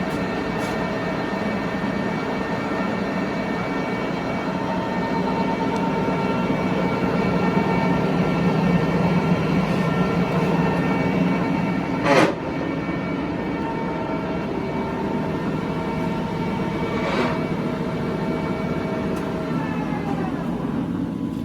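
Tru-Turn 75-inch engine lathe running under its 30 kW main motor: a steady gear whine over a hum. There is a sharp clunk about twelve seconds in and a lighter one about five seconds later, and near the end the tones fall as the machine slows down.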